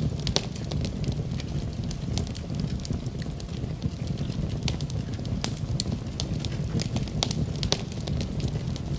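Wood fire crackling in a fireplace: frequent sharp pops and snaps, irregularly spaced, over a steady low rumble.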